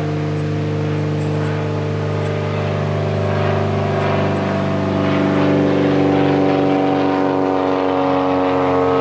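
Airplane flying overhead: a steady drone of several tones that grows louder about halfway through.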